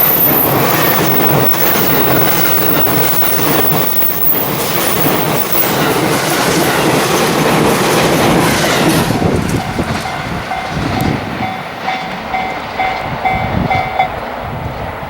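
A 12-car JR East E353 series electric train passing close by on curved track, its wheels and running gear rumbling with a clickety-clack. The train noise drops away about nine seconds in, leaving a level-crossing bell ringing in a steady repeating beat until shortly before the end.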